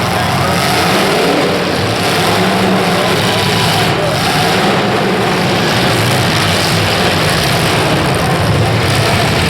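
Demolition derby cars' engines running and revving together, a loud steady mix of engine noise.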